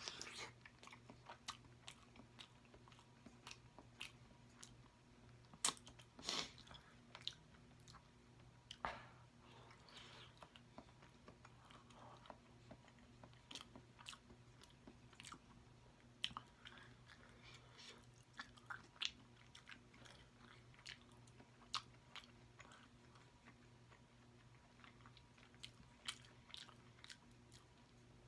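Close-miked chewing and biting of sauce-dipped seafood-boil food, starting with a bite of boiled egg, with many short wet mouth clicks scattered throughout.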